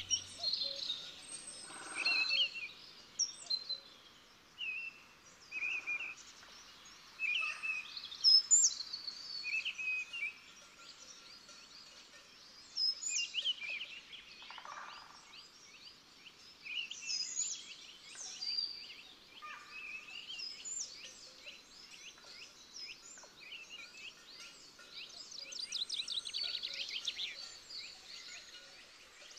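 Several small songbirds calling: short chirps and whistled notes scattered throughout, with runs of fast repeated trills in the second half.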